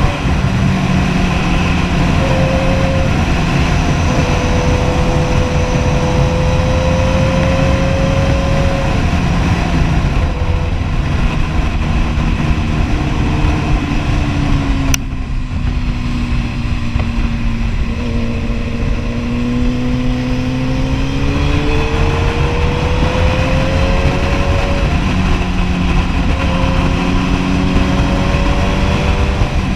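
Kawasaki Ninja ZX-10R's inline-four engine running at riding speed under a heavy rush of wind on the microphone, its pitch rising and falling gently with the throttle. Halfway through there is a sharp click, after which it is a little quieter and the pitch dips, then climbs again.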